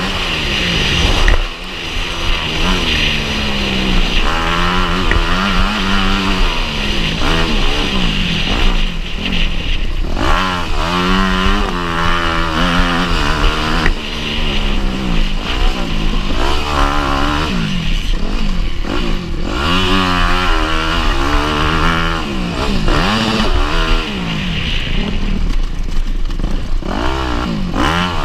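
Motocross bike engine running hard, its pitch climbing and dropping over and over as the rider accelerates and backs off.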